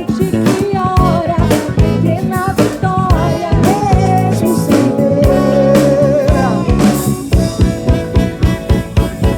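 Live band playing gospel soul music: drums, bass, guitar and keyboards, with a lead melody bending and sliding over the top. About seven seconds in, the band shifts to quick, even drum hits under held chords.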